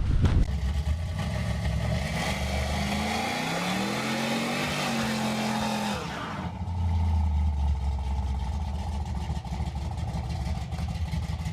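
Supercharged small-block Chevy V8 revving: it rises in pitch about two seconds in, holds, then drops about six seconds in to a steady idle.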